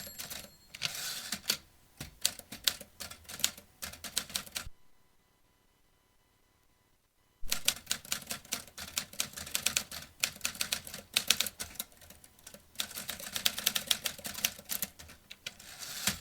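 Vintage typewriter being typed on: rapid runs of key strikes, with a pause of about three seconds before the typing resumes.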